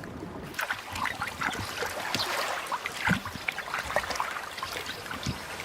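Shallow floodwater splashing and sloshing in irregular short splashes as carp thrash against each other while spawning, with one sharper splash about three seconds in.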